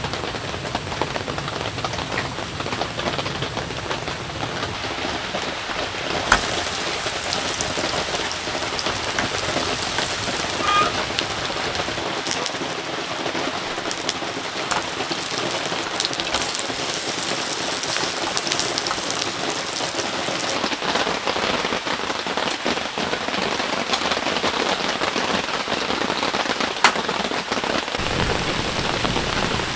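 Heavy rain falling, a steady dense patter, with a couple of sharp single knocks, one about six seconds in and one near the end.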